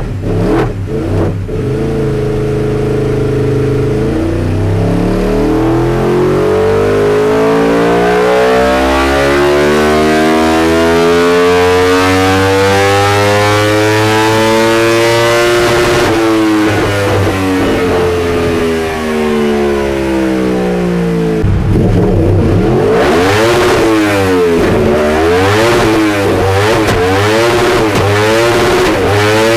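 Yamaha R1 inline-four superbike engine on a dyno run: the revs climb steadily for about twelve seconds in a full-throttle pull, then fall away as it coasts down. Near the end it is revved up and down in quick blips.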